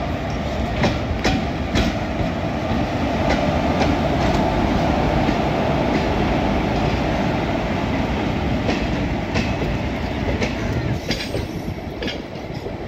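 WAP-4 electric locomotive and its passenger coaches rolling past close by: a steady rumble of wheels on rails with sharp, irregular clickety-clack wheel clacks. It is loudest as the locomotive goes by and eases a little as the coaches follow near the end.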